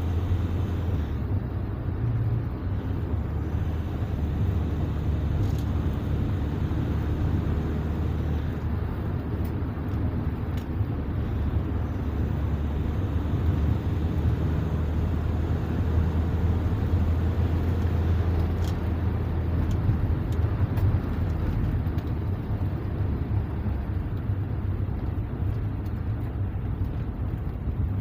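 MV 350 being driven at road speed, a steady low rumble of drivetrain and tyres with no differential hum, since its side gears, pinion gear and four bearings have been replaced.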